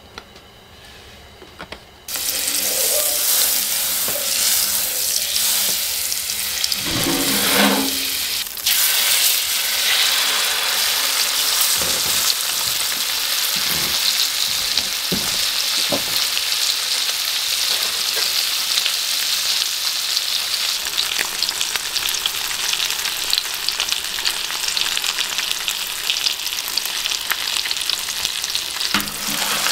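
Salmon fillet frying in hot oil in a pan: a steady, loud sizzle that starts abruptly about two seconds in.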